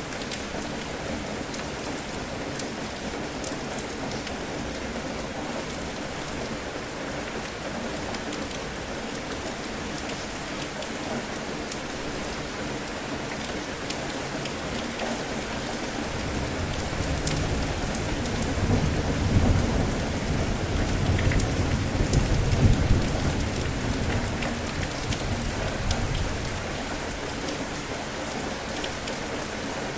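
Steady rain falling. About halfway through, a long low roll of thunder swells up, rumbles for roughly ten seconds and fades back into the rain.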